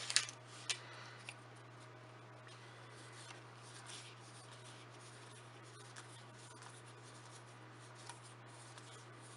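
Trading cards being handled and slid over one another: faint soft rustling and light ticks, with a few sharper clicks in the first second. A steady low hum runs underneath.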